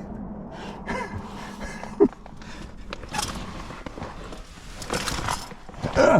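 A climber's strained breathing and short grunts of effort, with scuffs and scrapes of body and gear against rock while squeezing up a chimney. The loudest grunt comes at the very end.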